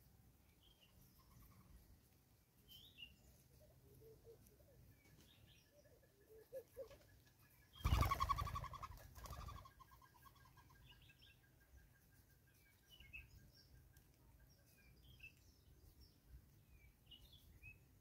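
Wild birds chirping faintly with short, high calls scattered throughout. A thin, rapid trill runs through the middle, and about eight seconds in there is one much louder call, lasting about a second and a half.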